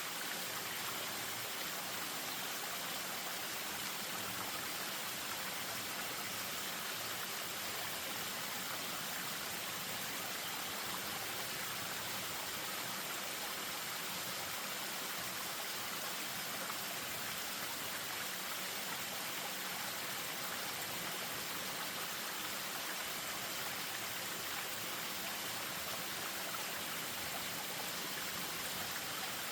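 Spring-fed stream running over a small waterfall: a steady, even rush of water with no change.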